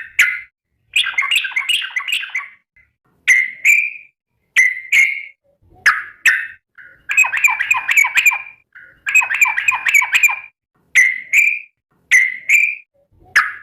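Yellow-vented bulbul (trucukan) singing a loud series of bubbly, warbling phrases, some short and some longer and more rolling, repeated with brief pauses between them: the 'calling companions' call.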